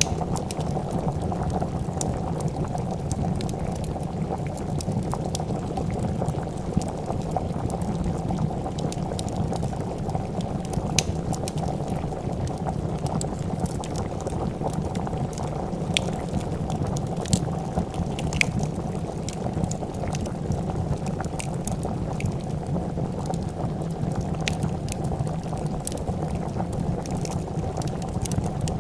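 A pot of soup boiling with a steady, dense bubbling, over which a wood fire crackles with scattered sharp pops.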